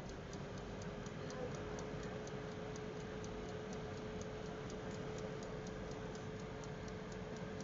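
Rapid, regular ticking, several ticks a second, over a faint steady hum.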